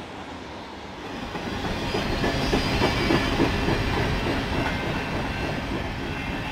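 Freight train of covered hopper cars rolling past, its wheels clacking over the rail joints. It grows louder from about a second in and is loudest in the middle.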